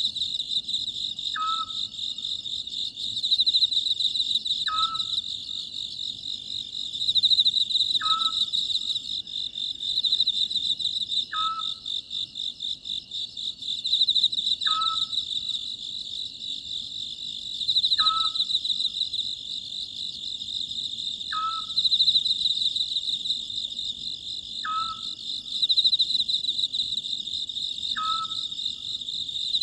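Oriental scops owl calling, a short, slightly falling call repeated about every three and a half seconds, nine times, over a steady high chorus of chirping crickets.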